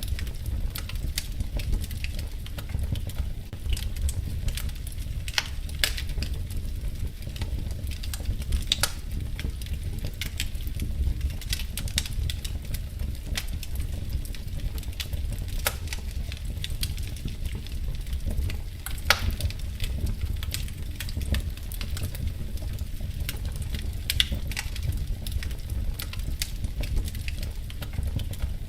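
Wood fire crackling in a fireplace: irregular snaps and a few sharper pops over a steady low rumble.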